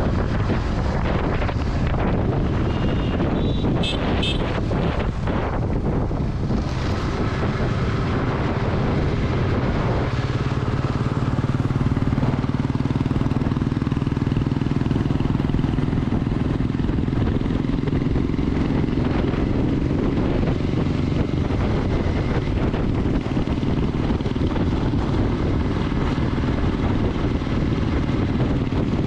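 Motorcycle engine running while on the move, with wind rushing over the microphone. The engine hum steadies into an even drone about ten seconds in, and a few short high beeps sound about four seconds in.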